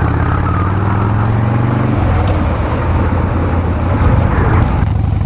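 Harley-Davidson Dyna Street Bob's V-twin engine running under way, its note rising for about two seconds and then holding steady, with wind noise over the microphone.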